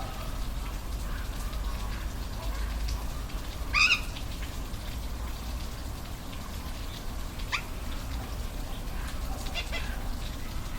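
Waterfall rushing steadily with a low rumble. A short, loud animal call cuts through about four seconds in, and a briefer rising call follows near eight seconds.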